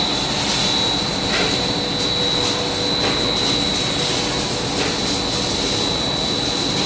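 Industrial machinery running steadily: an even mechanical noise with a steady high whine and a lower hum, and a few faint knocks.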